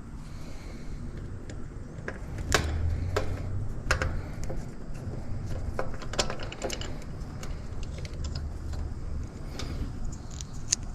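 Scattered light clicks, taps and rattles of hands working on an air conditioner's electrical compartment, with a steady low rumble underneath.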